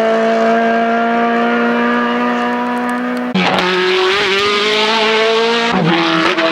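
Racing car engine at high revs on a hill-climb run, the pitch climbing steadily under acceleration. About three seconds in it turns rougher and drops briefly in pitch before climbing again, as at an upshift, and it dips once more near the end.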